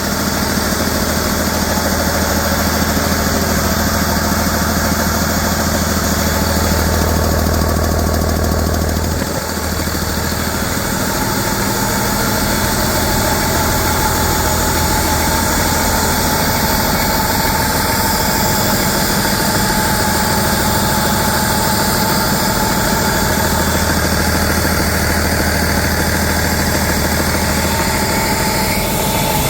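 2008 Cummins ISB 6.7L inline-six diesel engine running steadily at idle during a test run, its level dipping briefly about nine seconds in.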